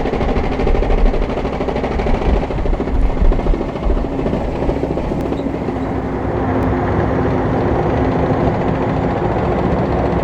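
Type 10 main battle tank driving past on a road: its tracks clattering and its diesel engine running. The sound is uneven and pulsing for the first few seconds, then settles into a steadier drone with a held engine tone.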